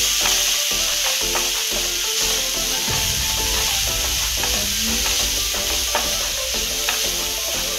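Chopped carrot, onion and green chilli sizzling in oil in a non-stick frying pan while a wooden spatula stirs and scrapes them around: a steady hiss with scattered scrapes and taps.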